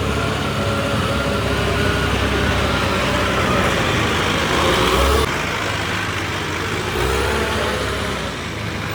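A heavy vehicle's engine running steadily, swelling in its low rumble about five seconds in and again about seven seconds in.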